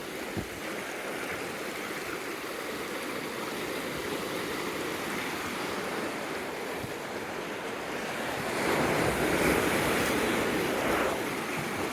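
Ocean surf washing in steadily, with a wave surging louder about nine seconds in and easing off near the end.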